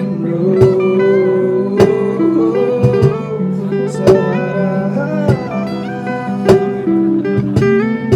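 Band music: a guitar plays a melody line with bending notes over sustained chords, with a sharp drum hit about every second and a bit.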